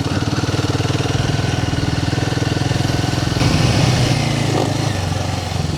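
Royal Enfield Himalayan 450's single-cylinder engine running at low, steady revs with an even pulse, getting a little louder with more hiss about three and a half seconds in.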